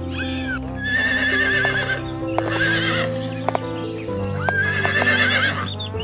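A short arching dolphin whistle at the start, then a horse neighing twice, once about a second in and again near the end, each call wavering in pitch. Sustained background music runs under it.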